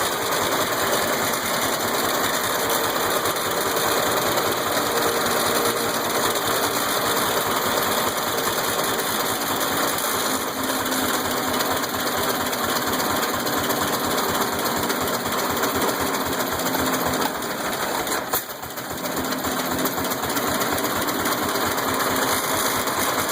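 Engine of a 1912 International Harvester Autowagon running at a fast, even beat on its first run after sitting dead for a while. The beat drops briefly with a sharp click about three-quarters of the way in, then picks back up.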